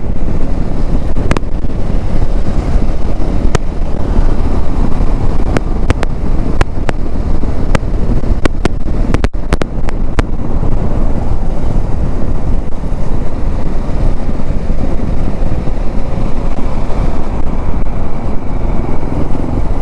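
Heavy wind buffeting a microphone on a motorcycle at highway speed, about 110 km/h, heard as a loud deep rumble. Sharp crackles pop through it many times in the first half: the mic crackle being tested for.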